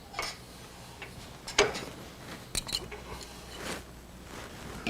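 A few scattered clicks and clinks of metal tools and parts being handled at a wood lathe, the sharpest about one and a half seconds in.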